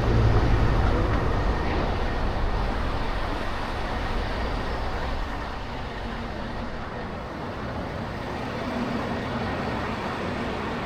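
Car driving through city traffic: a steady rumble of engine, tyres and road noise, loudest in the first couple of seconds and easing off about five seconds in.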